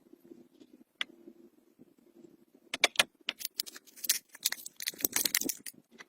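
Sharp metallic clinks and jangles, a few at first and then a dense clatter through the second half, over a faint low steady hum.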